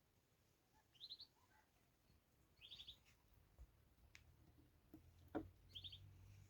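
Faint bird chirping: three short runs of quick high chirps, three or four notes each, with a couple of faint clicks in between.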